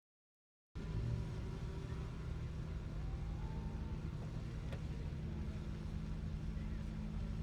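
Truck engine running at a steady pitch, cutting in suddenly after a moment of silence.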